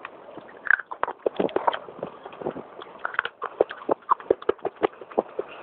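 Pieces of fired clay pot crunched between the teeth: a fast, irregular run of sharp, crispy cracks and crunches.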